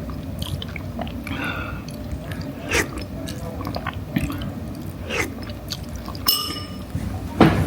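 Eating sounds: chewing, with scattered small clicks and clinks of tableware, and one brief ringing clink about six seconds in.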